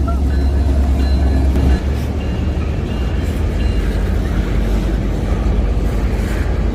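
Steady low rumble of a train passing.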